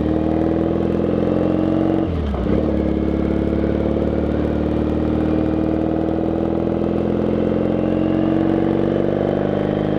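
Triumph Bonneville parallel-twin motorcycle engine under way, pulling steadily up in revs. About two seconds in there is a brief dip as it shifts up a gear, then it climbs again.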